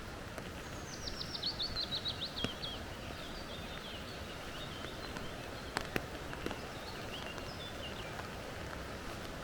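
Small forest bird singing a fast run of high notes that falls in pitch, about a second and a half long, then softer twittering. Under it is a steady background rush, with a few sharp ticks about six seconds in.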